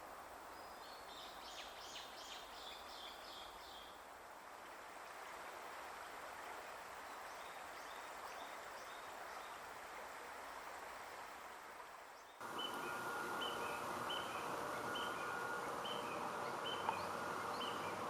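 Outdoor nature ambience: a steady rushing hiss with small birds calling, first a quick high trill, then a few short repeated notes. About twelve seconds in it cuts to louder ambience with a steady high whine and a bird repeating a short call about once a second.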